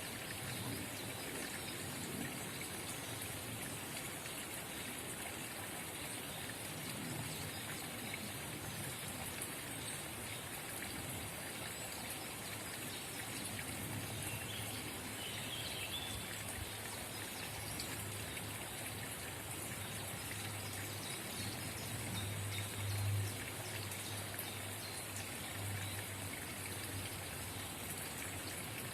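Forest spring water trickling and babbling steadily. A low rumble comes in about halfway and swells briefly about three-quarters of the way through.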